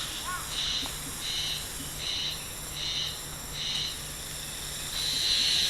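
Insects calling outdoors in an even, high-pitched pulsing rhythm, a little under two pulses a second, over a faint steady hum.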